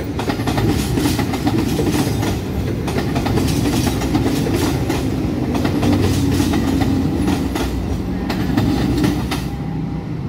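Argo Bromo Anggrek passenger train rolling past at speed, its coach wheels clattering in a fast, even rhythm over the rail joints over a steady rumble. The clatter fades out near the end as the last coach goes by.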